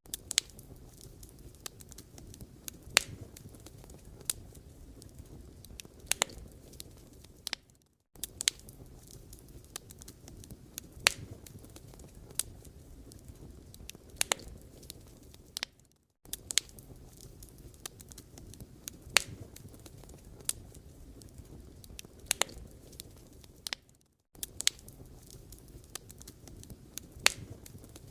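Wood fire crackling, with irregular sharp pops over a low steady rumble of burning. The sound cuts out briefly about every eight seconds.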